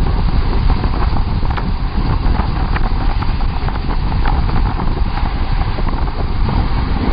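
Wind buffeting the microphone: a loud, steady low rumble with a few light clicks scattered through it.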